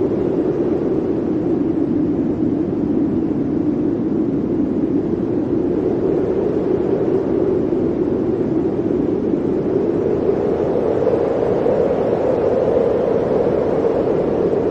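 Blizzard wind blowing steadily, a dense rushing noise whose low pitch drifts a little higher near the end.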